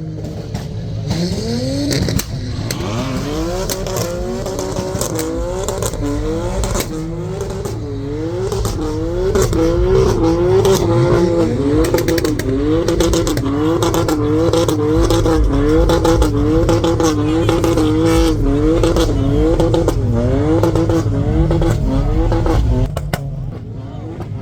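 Car engine revved over and over, its pitch climbing and dropping back about once a second for some twenty seconds, then easing off near the end.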